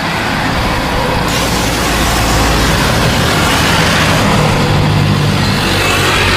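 Airliner jet engines running loud: a steady roar that grows fuller and brighter about a second in.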